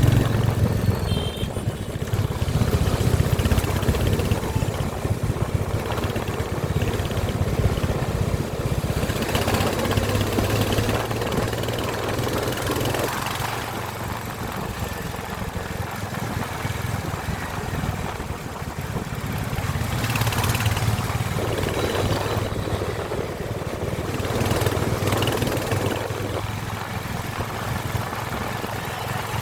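Royal Enfield Hunter 350 motorcycle's single-cylinder engine running steadily, its loudness swelling and easing a few times.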